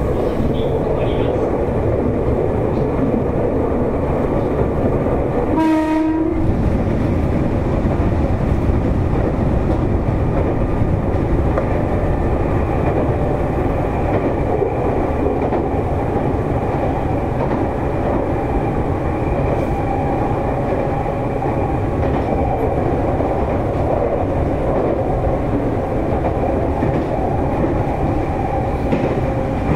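Nankai 7100-series electric train car running at speed, heard from inside the car as a steady rumble. About six seconds in, a train horn sounds once for about a second.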